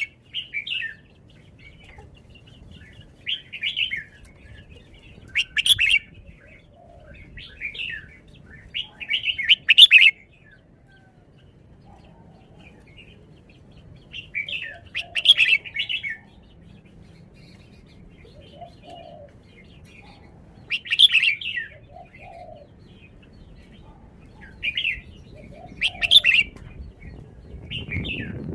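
Red-whiskered bulbul singing: short bursts of song phrases every few seconds, with gaps of several seconds between.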